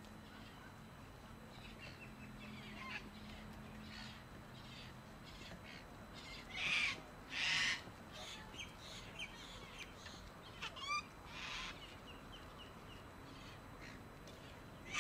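Birds calling: scattered short calls, with two loud calls in quick succession about seven seconds in and another loud one about eleven and a half seconds in.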